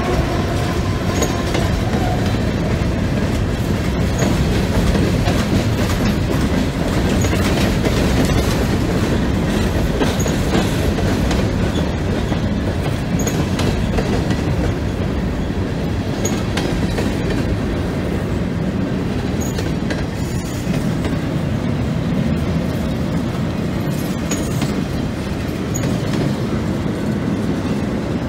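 Freight cars (open-top hoppers, a tank car and flat cars) rolling steadily past at a grade crossing, the wheels rumbling and clacking over the rail joints and the crossing.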